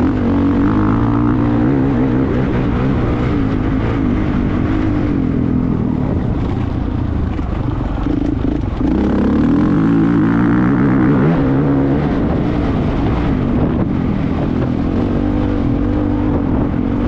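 Motocross bike engine running hard, its pitch rising and falling as the throttle is worked.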